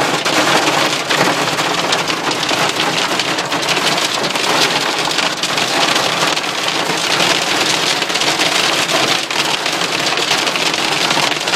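Hail and heavy rain pelting a car, heard from inside the car: a dense, steady clatter of many small impacts.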